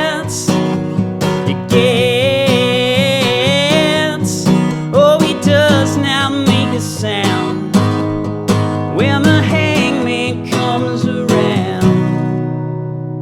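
Acoustic guitar strummed, closing a song; a held, wavering melody line sounds above it for the first few seconds. The final chord is struck about twelve seconds in and rings out, fading.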